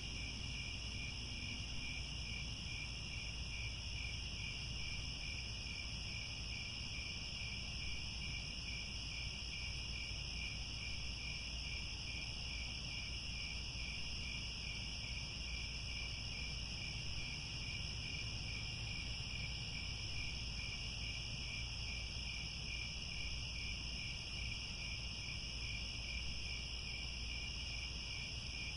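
Chorus of crickets chirping steadily: a high, evenly pulsing trill with a second higher band, unchanging throughout, over a low steady rumble.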